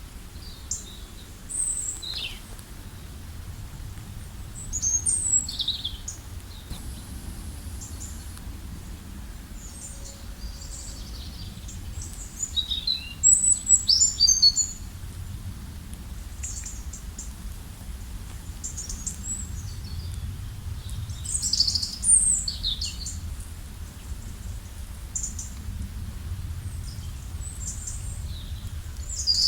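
Several wild songbirds chirping and singing in short, high-pitched phrases, with bursts of calls about 5, 13 and 22 seconds in, over a steady low rumble.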